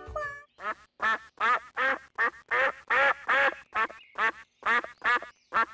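Mallard duck quacking in a rapid series of short, evenly spaced quacks, about two to three a second.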